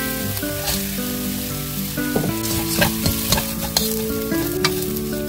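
Minced garlic and sliced green chillies sizzling in oil in a nonstick wok. From about two seconds in, small dried anchovies are stir-fried in it with a wooden spatula, short scraping and tapping strokes against the pan.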